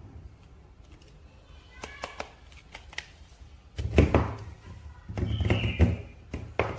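Handling of a toy figure and its packaging: a run of sharp clicks, a loud thud, then a short clatter and one more click near the end.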